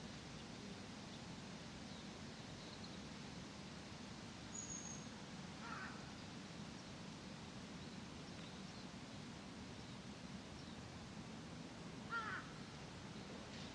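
Crow cawing twice, about six seconds apart, the second call louder, over a steady low background hum. A brief high thin bird whistle comes just before the first caw.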